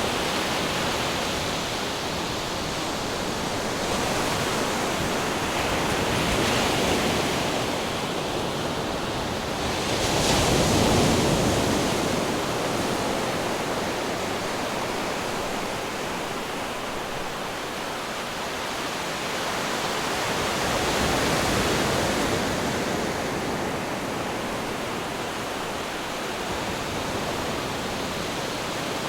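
Ocean waves breaking on rocks: a continuous wash of surf that swells and ebbs in several surges, the biggest about ten seconds in.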